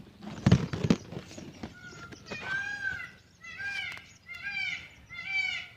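Indian peafowl calling: a run of about five short, arched, nasal calls, roughly one a second, starting about two seconds in, after a brief rustle of handling and footsteps.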